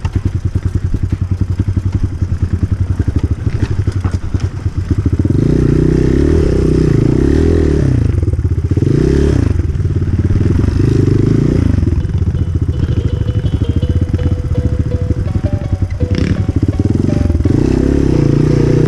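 Enduro motorcycle engine under riding load, its revs rising and falling again and again with the throttle. It chugs low for the first few seconds, then runs at higher revs from about five seconds in.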